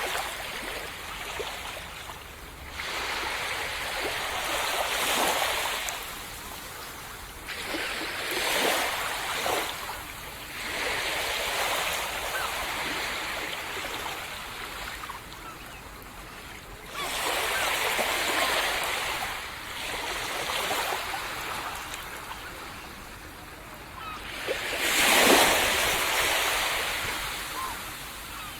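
Sea waves breaking and washing up a sandy beach, a surge of surf every few seconds with quieter hissing wash between, the biggest one near the end.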